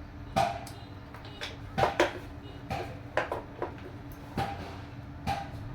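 Irregular hard clacks and knocks, about eight of them, over a steady low hum, as from RC toy construction vehicles' plastic parts being worked and knocking together.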